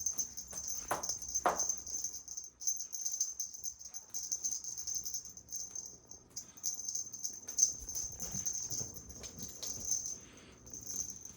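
Cat toy jingling and rattling as it is shaken and dragged in play, a high-pitched shimmer that flickers rapidly and keeps going, thinning near the end. Two short lower sounds stand out about a second in.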